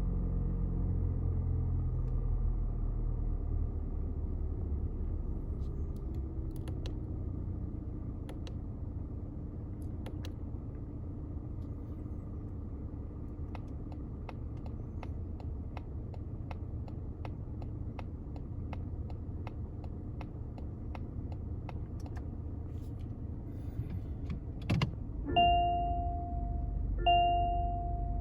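Mazda CX-30's 2.0-litre petrol engine idling just after start-up, its pitch slowly settling lower. From about halfway the turn-signal relay ticks at an even pace. Near the end comes a single click, then the reverse-gear chime dings three times.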